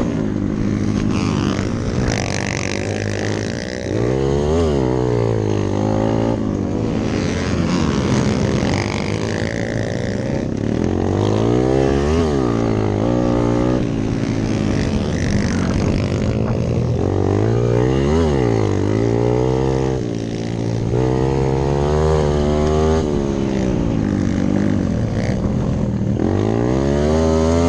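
Hero Impulse dirt bike engine being ridden hard, its pitch repeatedly climbing and dropping every few seconds as the throttle is opened and closed.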